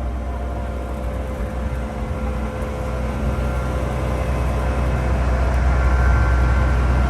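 Small tourist train running, heard from aboard: a steady low rumble that grows gradually louder, with faint steady whining tones over it.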